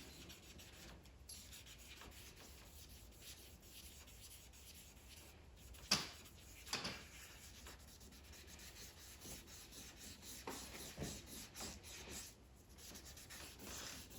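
Faint rubbing of solvent over the carved giltwood frame of an antique mirror, stripping matte spray paint off the gold gilding beneath. A sharp click about six seconds in, and a smaller one soon after.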